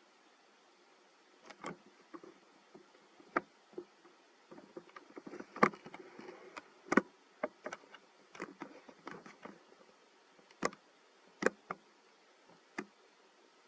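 Irregular sharp clicks and short bursts of soft rustling, scattered over about a dozen moments and busiest in the middle.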